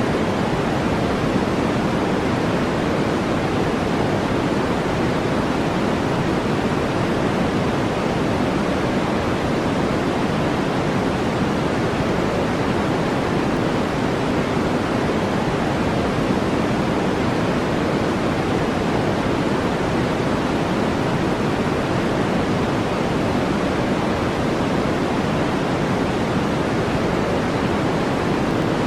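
Steady generated noise, a deep, even rush with more weight low than high and no change in level.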